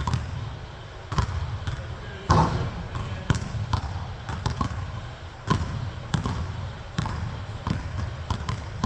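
Basketball bouncing on a court, sharp irregular thumps about twice a second, with a heavier bounce about two seconds in.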